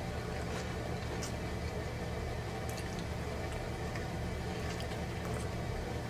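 Wet, squishy chewing and mouth clicks from a man biting into and eating a double cheeseburger, heard close up as several short sharp clicks over a steady low hum.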